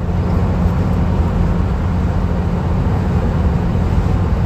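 Steady low rumble of road and engine noise from a van being driven along the highway.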